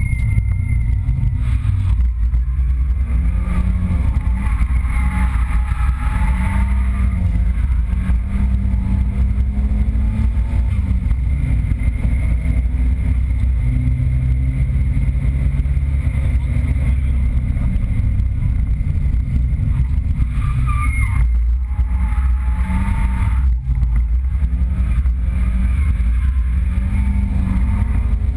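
Nissan 200SX drift car's engine heard from inside the cabin, revving up and falling back over and over as it is driven through drifts.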